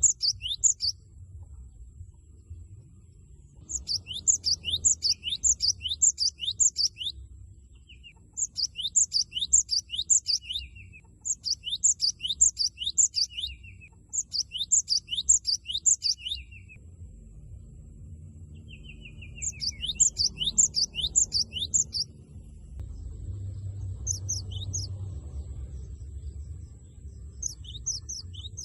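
Cinereous tit (gelatik batu) singing its loud 'wucit wucit' song in repeated bursts, each a quick run of sharp notes sliding down in pitch, separated by short pauses. A faint steady high whine and a low hum run underneath.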